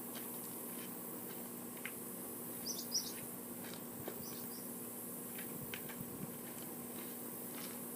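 Quiet background hiss with a faint steady hum, with a few short, high bird chirps about three seconds in and again shortly after.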